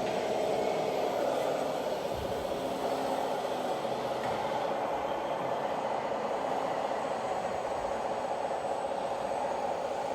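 Radio-controlled scale model truck or tractor running with a steady engine-like drone.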